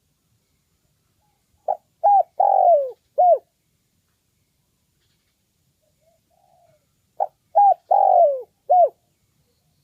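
Spotted dove cooing: two four-note phrases about five and a half seconds apart, each with a short first note, a second note, a longer falling third note and a short final note.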